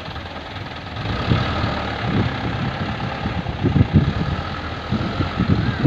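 Diesel dump truck engine running, with an uneven low rumble that grows louder about a second in.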